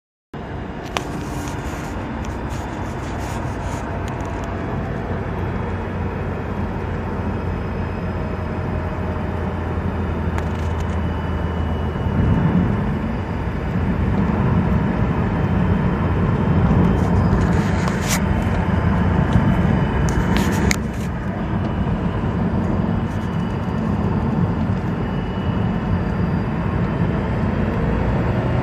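2006 Mazdaspeed 6 with its 2.3-litre turbocharged four-cylinder running while the car drives, steady engine and road noise with a faint whine over it. The noise grows louder partway through.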